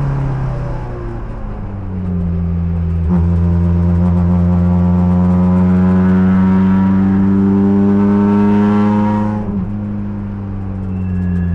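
Race car engine heard from the cockpit. The revs fall at first, then the engine pulls under load, with its pitch rising steadily for about six seconds. About nine seconds in the throttle is lifted and the revs drop, then they climb again near the end. There is a short click about three seconds in.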